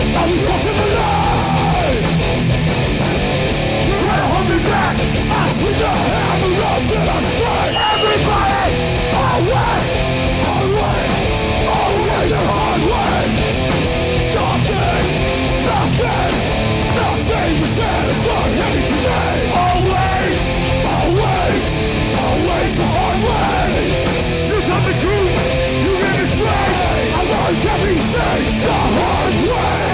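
Hardcore punk band playing live with distorted electric guitars and drums, loud and unbroken.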